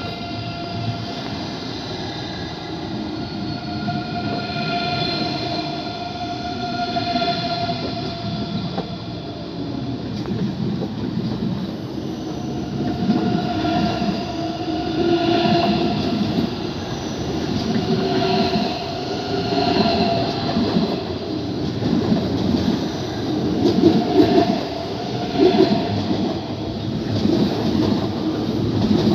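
A train moving along the station tracks. It starts with a steady whine, then settles into a regular beat of wheels over the rail joints that grows louder toward the end.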